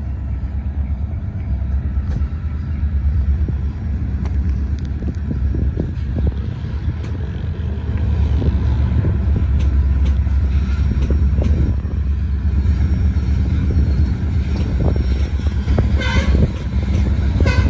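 EMD SD40-2 diesel locomotive on a Norfolk Southern local backing up. The engine's low rumble gets louder about eight seconds in, with scattered knocks and clanks from the train.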